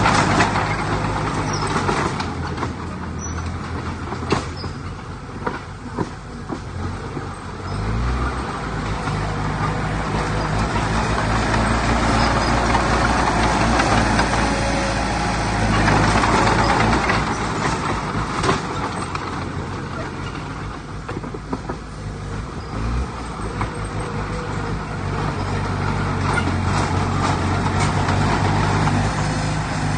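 Heavy diesel earthmoving machinery running steadily, its engine note shifting a few times as it works, with occasional clanks.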